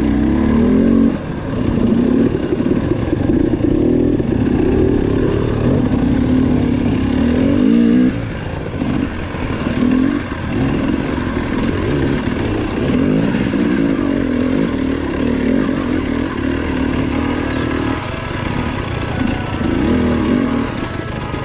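Two-stroke KTM dirt bike engine ridden hard off-road, revving up and down over and over as the throttle is worked, with brief dips where the revs drop off about a second in, about eight seconds in and near the end.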